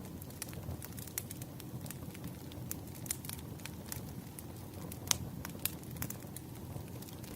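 Firewood burning, with irregular sharp crackles and pops over a low steady rumble of flame; the loudest pop comes about five seconds in.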